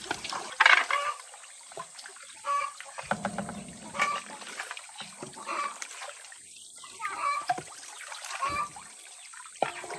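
Water splashing and trickling in irregular bursts, with scattered light knocks.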